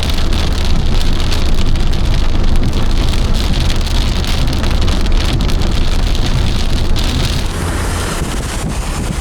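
Heavy rain pelting a car's roof and windscreen while driving, over a steady low rumble of engine and road noise heard from inside the cabin. The rain noise eases a little near the end.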